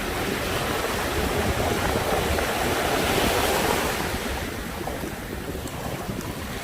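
Sea waves breaking and washing on the shore: a steady rush of surf that swells a couple of seconds in and then ebbs, with wind buffeting the microphone.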